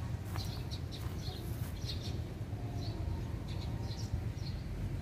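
Small birds chirping: short, high chirps repeating many times, over a steady low rumble.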